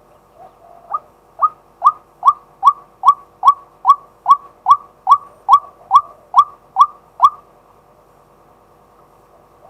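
Male white-breasted waterhen calling: a run of about sixteen short rising notes, roughly two and a half a second, starting about a second in and stopping near the end.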